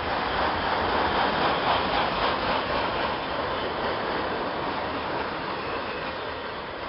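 Loaded autorack freight cars rolling past close by: a steady rush of wheels on rail with car-body rattle, a little louder in the first couple of seconds and then easing slightly.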